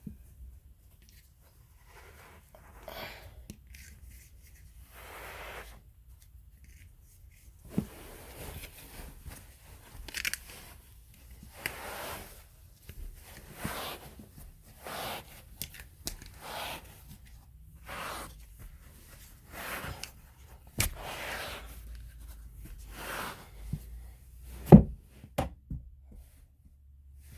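A Bissell PowerForce Helix vacuum filter being handled roughly: a series of short scraping, rustling strokes, about one a second, with a few sharp knocks near the end.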